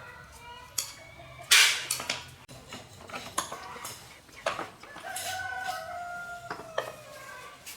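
A rooster crowing, one long call about five seconds in, over a run of sharp knocks and clicks; the loudest knock comes early.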